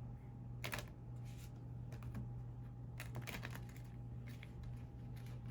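A few faint, irregular light clicks and taps over a steady low hum.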